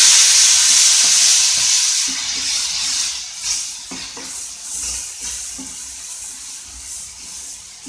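Ground tomato and spice paste sizzling in hot oil in a frying pan, loud at first and dying down after about two seconds, with a wooden spatula stirring and scraping through it.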